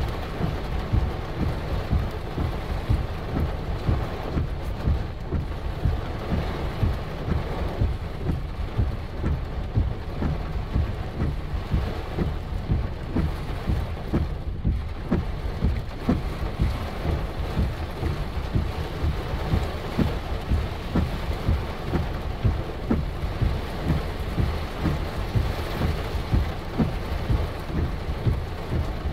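Heavy rain pouring down, with a dense, irregular patter of close drop impacts throughout.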